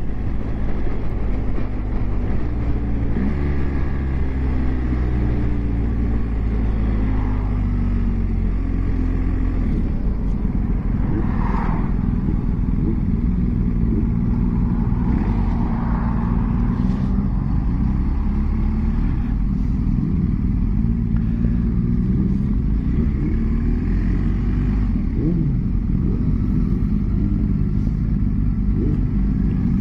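Motorcycle engine heard from on board at low road speed, its pitch rising and falling several times as the rider changes speed and gear.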